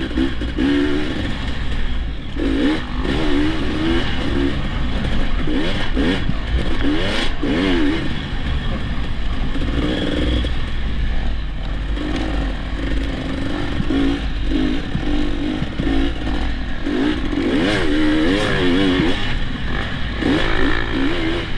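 Dirt bike engine running under load, its revs rising and falling again and again as the throttle is worked, over a steady low rumble.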